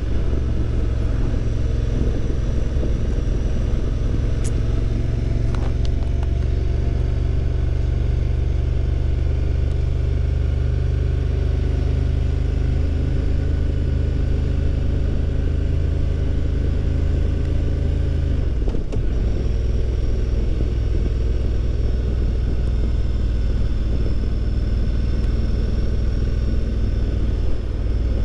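Honda Transalp motorcycle engine running steadily under way, its note stepping down to a lower pitch about two-thirds of the way through and holding there.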